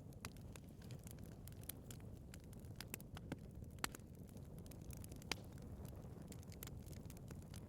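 Wood fire burning in a fireplace: a soft steady low rumble of flames with scattered sharp crackles and pops, a few louder snaps among them.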